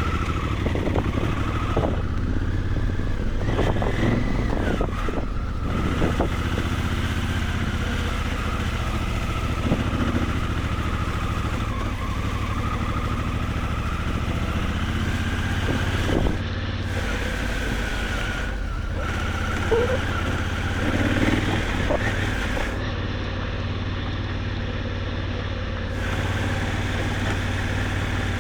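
Honda Africa Twin adventure motorcycle's engine running steadily at low revs while riding slowly over a muddy off-road trail. Occasional short knocks and rattles come from the bike over the rough ground.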